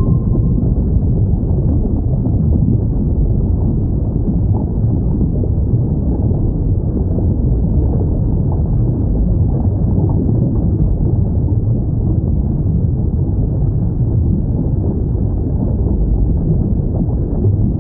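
Steady low underwater rumble, the background noise of a whale-sound recording, with no clear calls. The tail of a single high whale call fades out just at the start.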